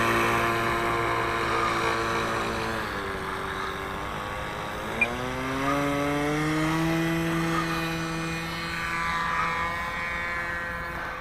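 OS .46 AX two-stroke glow engine of an RC sport plane in flight, fading as the plane flies away. Its pitch drops near the start and again about three seconds in, then climbs back up between about five and seven seconds.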